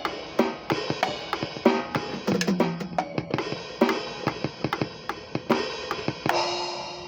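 Drum kit played freely: rapid, irregular bass drum and snare hits with cymbals, and a drum ringing on briefly a couple of times.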